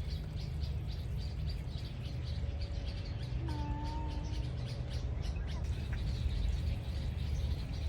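Small birds chirping: short high chirps repeated a few times a second, stopping about five seconds in, over a steady low rumble.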